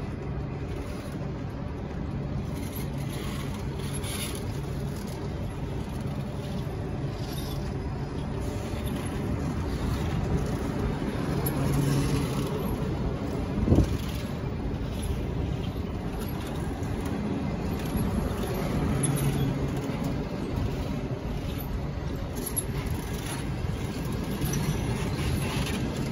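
Coaches of a departing long-distance passenger train rolling slowly past, a steady rumble of steel wheels on the rails with a low hum. A single sharp knock stands out about halfway through.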